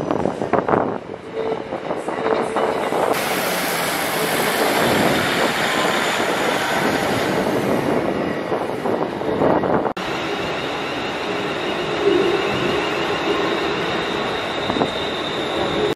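A ScotRail Class 156 diesel multiple unit runs over pointwork, its wheels clattering at first and then giving a dense, steady rumble. About ten seconds in, this gives way to a Class 380 electric multiple unit moving along the platform, running steadily with a faint high tone.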